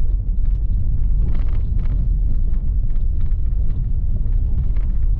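Steady low rumble of a car driving, heard from inside the cabin, with faint irregular light rattles and knocks over it.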